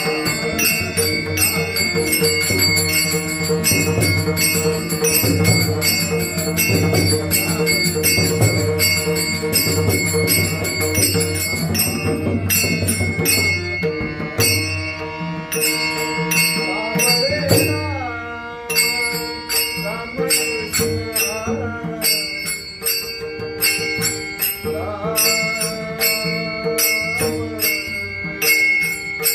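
Varkari bhajan: a male singer's devotional singing over steady held instrument tones, a hand drum and small hand cymbals (taal) striking in a regular beat.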